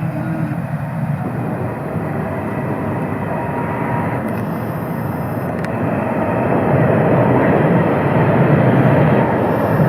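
Tram running past: a steady rumble that grows louder over the second half.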